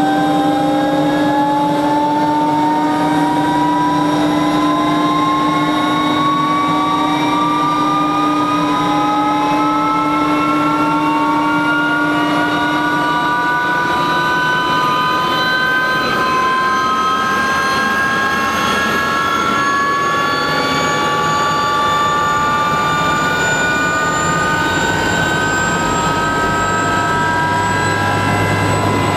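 Soko-built Aérospatiale SA 341 Gazelle's Turbomeca Astazou turboshaft winding up during engine start: a set of whines climbing steadily in pitch. A lower steady tone stops about halfway, and a low hum builds near the end.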